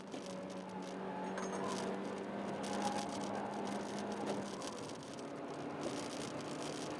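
Honda Jazz's 1.3-litre four-cylinder engine running under load, heard from inside the cabin over tyre and wind noise; its steady note drops in pitch about four and a half seconds in.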